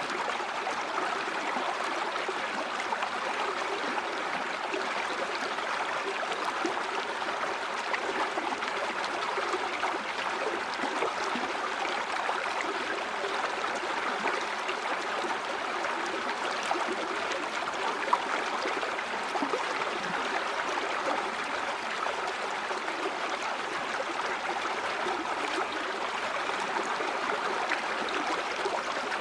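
Stream water flowing steadily over stones, a continuous rush with small gurgles and splashes throughout.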